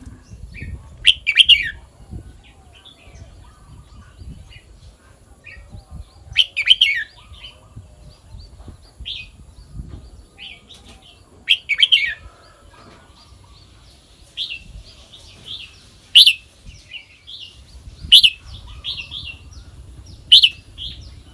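Red-whiskered bulbul singing: loud, short whistled phrases repeated about every five seconds, then a quicker run of short notes with loud calls in between during the second half.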